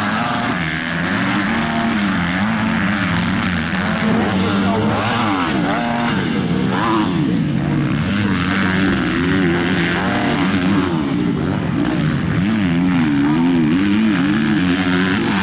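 Several motocross bikes revving hard together, their engine notes rising and falling over one another as they accelerate and shift.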